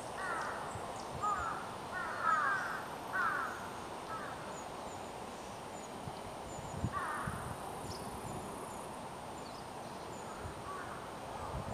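Wild birds calling in woodland, Japanese tits among them. Bursts of short, harsh, falling calls come in the first four seconds and again about seven seconds in, with faint high chirps between.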